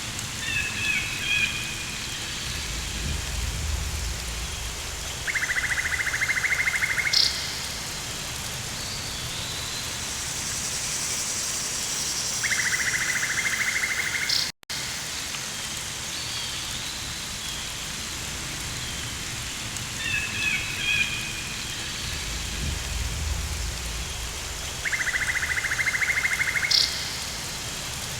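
Rainforest ambience: a steady hiss of rain, with birds chirping in short runs and a rapid pulsed buzzing call that comes three times, each about two seconds long. Low rumbles come twice, and the sound cuts out for an instant about halfway through.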